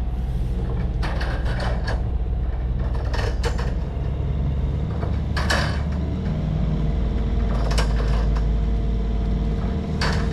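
Yanmar 75 hp marine diesel engine running steadily under way at cruising revs, between about 1,800 and 2,300 RPM, with a few short knocks or clatters on top.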